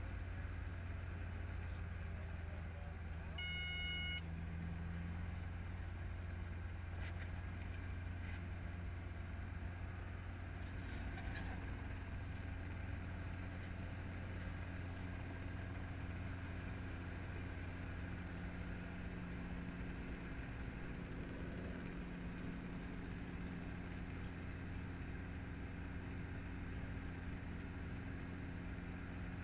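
Steady drone of a training helicopter's engine and rotor, with no change in pitch, and a short, high electronic beep about three and a half seconds in.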